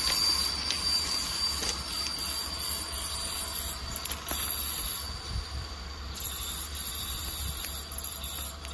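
Train rolling away along the track, with a thin, high wheel squeal that fades out in the first few seconds over a steady rolling noise.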